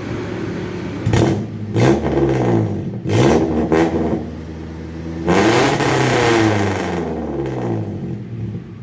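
Suzuki Futura's fuel-injected four-cylinder engine revving through an HKS Hi-Power racing exhaust, from idle: short blips about a second in, near two seconds and around three to four seconds, then a longer rev held for about two seconds that falls back to idle.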